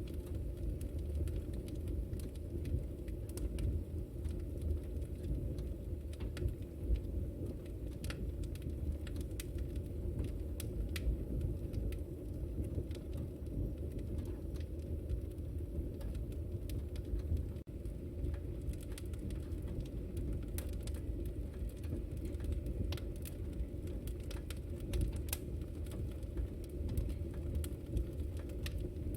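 Wood fire burning in a fireplace: a steady low rumble of flame with frequent small, sharp crackles and pops scattered throughout.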